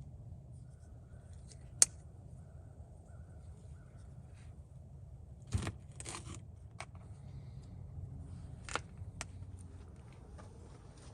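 Scattered clicks, taps and light scraping from handling food and cooking gear while preparing a meal, over a low steady rumble. A sharp click about two seconds in is the loudest, with a cluster of taps around the middle and another click near the end.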